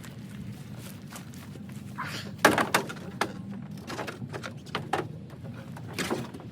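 Several sharp knocks and thuds over a steady low hum, the loudest about two and a half seconds in.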